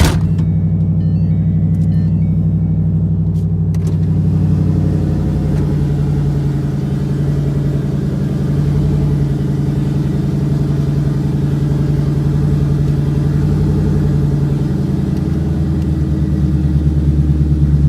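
Turbocharged Ford Coyote 5.0 L V8 with a 76 mm single turbo idling steadily.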